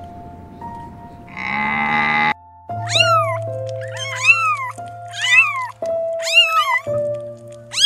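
A young kitten meowing repeatedly: high, rising-and-falling meows about one a second, over soft piano music. Before the meows, a short hoarse animal call.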